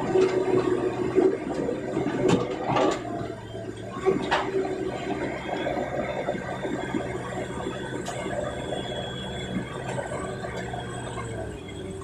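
Excavator engine running steadily under a rushing, pouring noise, with a few sharp knocks about two to four seconds in.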